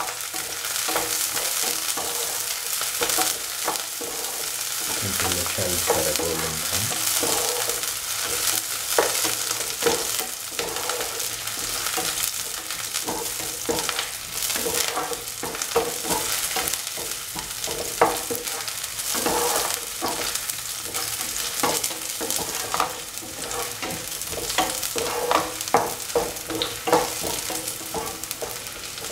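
Chopped shallots and garlic sizzling in hot oil in a pan, with a steady hiss as they are stirred. A spatula scrapes and knocks against the pan at irregular moments.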